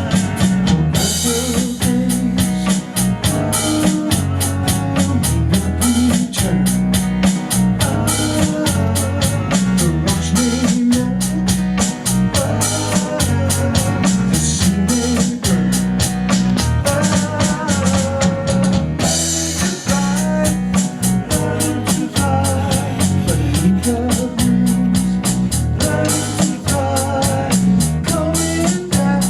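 A band playing a groove: drum kit keeping a steady beat under repeating low bass notes, with guitar lines on top. The cymbal ticks drop out for a moment about two-thirds of the way through.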